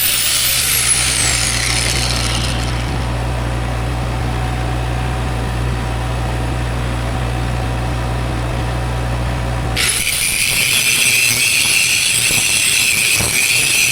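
Angle grinder working steel, its high whine falling as it spins down about two seconds in. A steady low engine hum follows, then the grinder runs again near the end.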